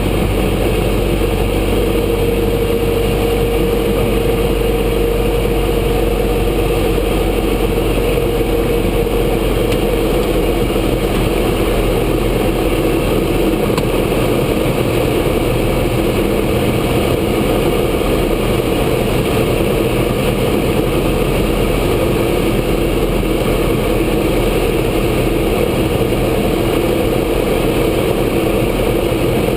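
Grumman AA-5 Cheetah's four-cylinder Lycoming engine and propeller running steadily: a continuous drone with a mid-pitched tone that is strongest for the first ten seconds or so.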